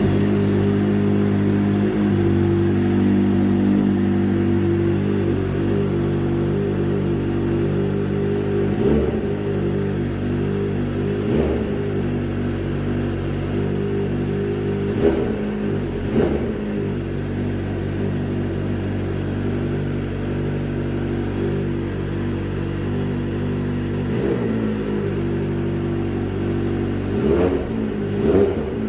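Kawasaki ZX-4RR's 399 cc inline-four running through a Yoshimura exhaust, idling steadily with about seven short throttle blips, several of them near the end.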